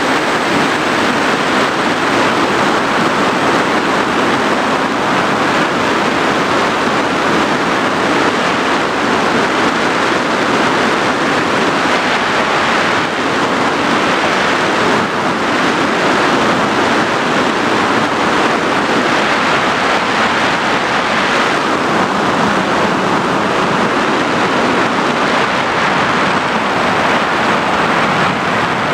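Steady rushing noise of an FPV drone in flight: airflow and wind over the onboard recording, even and unbroken with no distinct motor pitch.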